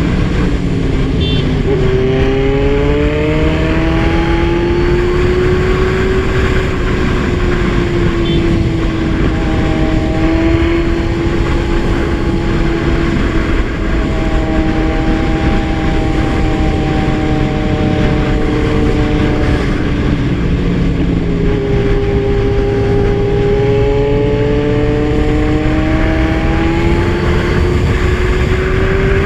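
Kawasaki Z1000 inline-four engine running at speed on the road, its pitch dipping and climbing slowly as the throttle changes, over steady wind and road rush.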